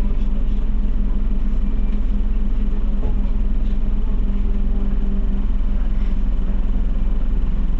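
Scania OmniCity bus under way, heard from inside: a steady engine drone over low road rumble.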